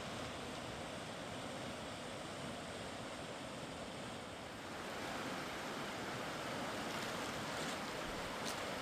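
A mountain river rushing past in a steady hiss, a little louder from about halfway through.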